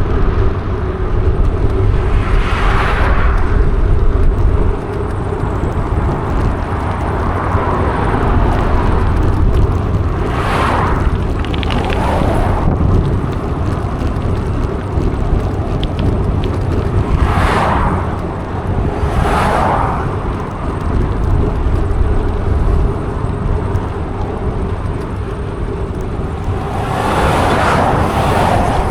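Wind rumbling steadily on the microphone of a moving mountain bike, with about six short whooshes of vehicles passing along the way.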